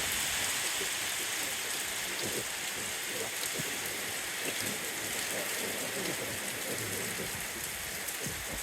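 Steady rain falling and pattering on surfaces, a constant even hiss with scattered drop ticks.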